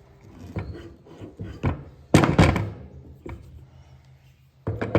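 Rebuilt Delco lever-arm shock absorbers being handled and set down on a work surface: a series of knocks and thunks, the loudest a double knock about two seconds in, with a few more near the end.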